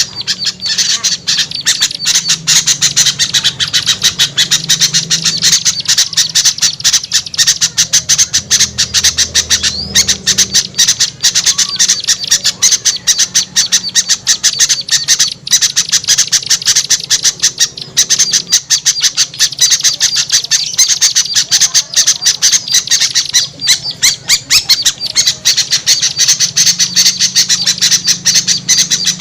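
Dense, unbroken chattering and scolding of many small birds at once: a mixed small-bird lure call used in bird trapping to draw birds down.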